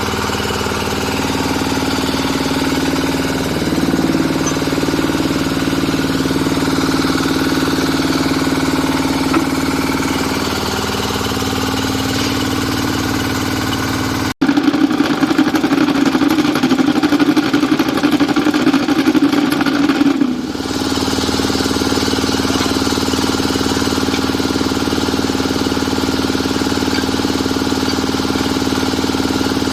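Diesel engine of a QTJ4-40 hydraulic interlocking block machine running steadily. After a brief cut about 14 seconds in, it goes louder and rougher for about six seconds, then settles back to steady running.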